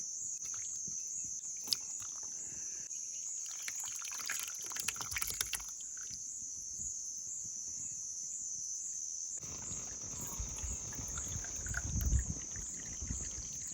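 Steady, high-pitched insect chorus, crickets, with a slight regular pulse. Scattered small clicks and knocks, and some low bumps about ten to twelve seconds in.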